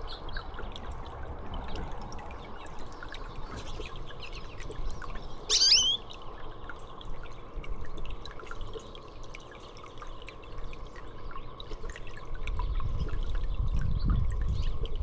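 Water dripping and trickling steadily, with many small splashing ticks. A single high bird chirp comes about five and a half seconds in, and a low rumble builds near the end.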